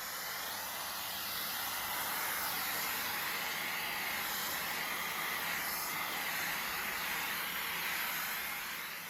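Henry Xtra vacuum cleaner running with its dusting brush attached: a steady rushing hiss of air that wavers slightly as the brush moves, easing off near the end.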